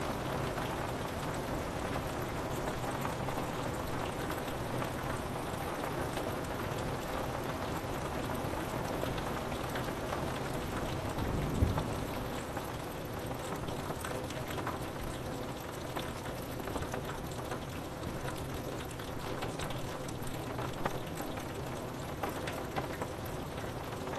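Steady rain pattering on a window pane, an even hiss full of small drop ticks. A short low rumble of thunder swells and fades about halfway through.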